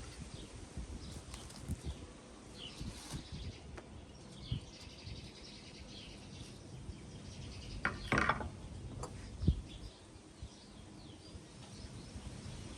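Small birds chirping in the background, with a few soft knocks and, about eight seconds in, one brief louder noise.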